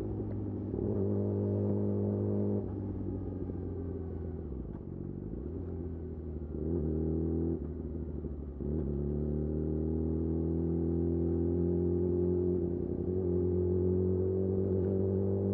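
Yamaha YZF-R6 inline-four running through a de-catted Akrapovic slip-on exhaust at low revs. The engine note changes pitch a few times, then rises slowly through the second half under gentle throttle.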